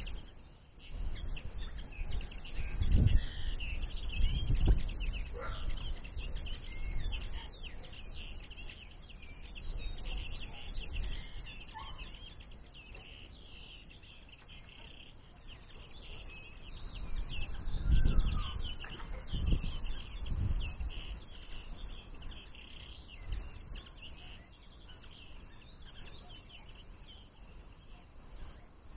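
Small songbirds chirping steadily with high, rapid calls, with a few low thumps and rustles here and there.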